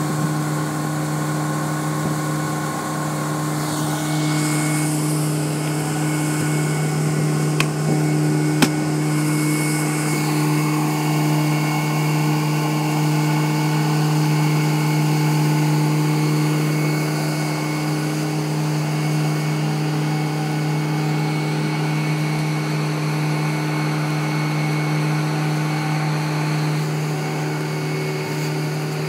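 Boat engine running at a steady speed, a constant even drone, with two short knocks about eight seconds in.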